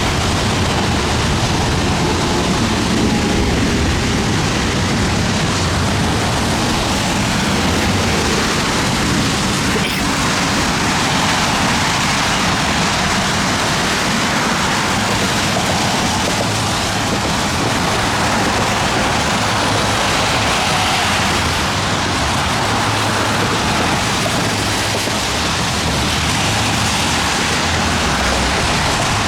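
Thunderstorm rain and wind making a steady, loud rushing noise, with an uneven low rumble underneath.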